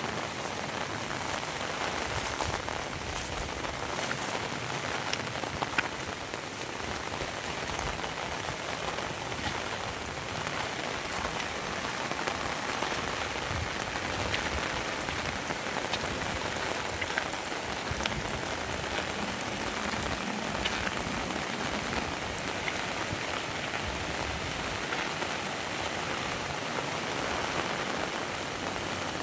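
Heavy rain falling steadily, with scattered sharper drop hits standing out, one a little louder about six seconds in.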